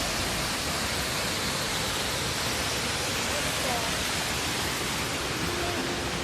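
Steady roar of a waterfall: an even rush of falling water, with faint voices here and there.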